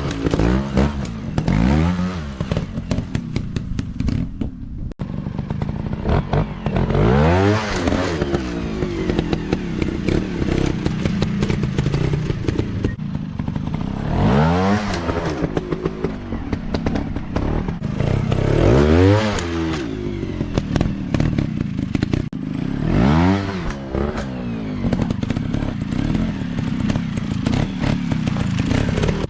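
Off-road dirt bike engines revving in repeated bursts, the pitch climbing and dropping every few seconds, with scattered clattering knocks in between.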